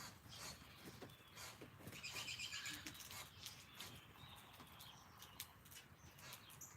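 Faint wild bird song outdoors, with a quick trill of short high notes about two seconds in, and scattered faint clicks throughout.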